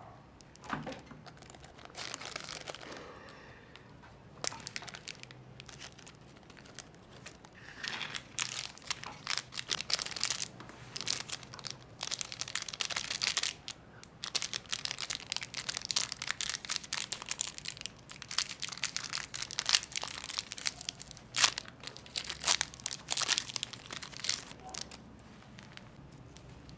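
Snack wrappers crinkling and tearing as they are handled and opened, in dense irregular crackles that grow busier and louder about a third of the way in and ease off near the end.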